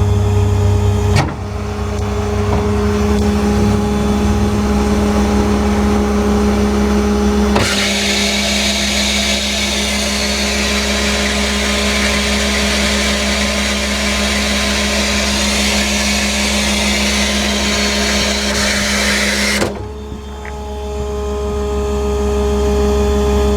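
Ford F550 mechanics truck's hydraulic system running off its 6.7 Power Stroke diesel: a steady engine drone with a steady pump whine. About seven seconds in, a loud rushing hiss starts with a clunk. About twelve seconds later it cuts off sharply with another clunk.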